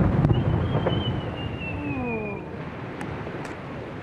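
Low rolling echo of a large aerial firework shell's burst, slowly fading, with a high whistle gliding slowly downward over about two seconds and a few faint crackles.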